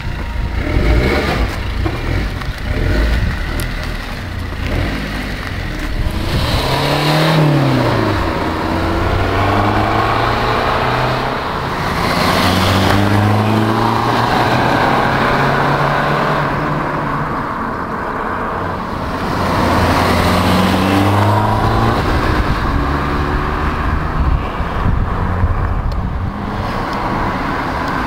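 Opel Astra H diesel engine running through an aftermarket stainless-steel exhaust, revved several times: a quick rise and fall in pitch about seven seconds in, and further climbs in pitch around twelve and twenty seconds.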